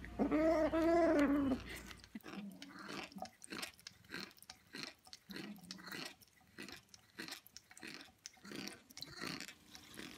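A cat gives one drawn-out, wavering yowl for about a second and a half, then chews, with irregular crunching clicks for the rest of the time.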